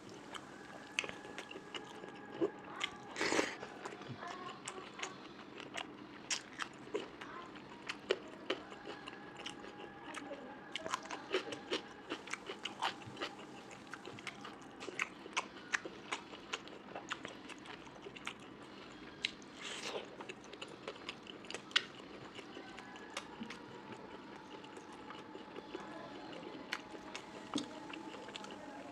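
Close-up eating sounds of a person chewing and biting a meal of curry, rice and pork fry: many short, irregular wet mouth clicks and chews.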